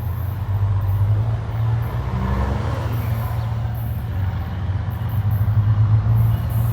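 Diesel-electric freight locomotive's engine running with a steady low rumble, heard close by.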